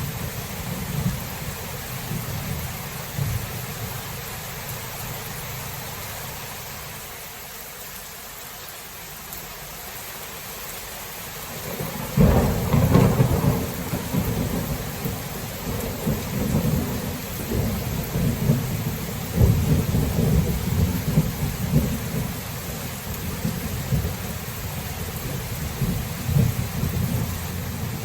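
Steady rain with thunder: a low rumble dies away, then about twelve seconds in a sudden loud thunderclap breaks and rolls on in heavy low rumbles.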